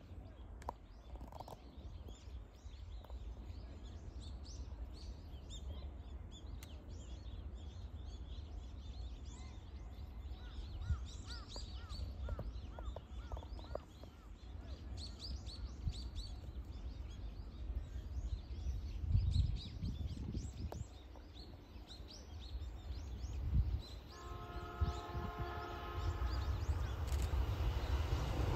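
Small birds chirping over a steady low rumble in open farmland, with a few seconds of pulsing ringing tones about 24 seconds in. In the last couple of seconds the rising rush of an approaching JR E653 series electric express train begins.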